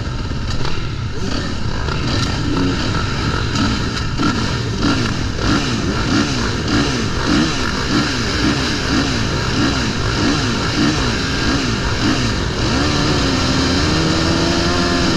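Motocross bike engine revved up and down in quick repeated bursts, about two a second, then held at a steadier higher pitch for the last few seconds, over a constant low rumble.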